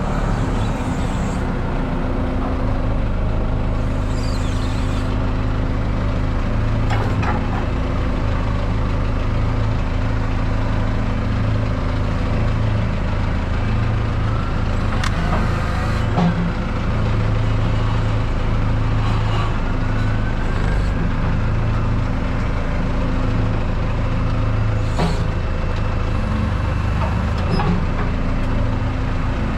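Heavy truck's engine running steadily with a low hum, with a few faint clicks over it.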